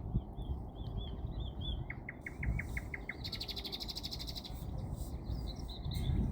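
A songbird singing over a steady low background rumble. It gives a run of short chirps, then a quick series of about eight down-slurred notes, then a fast buzzy trill, with a few more chirps near the end.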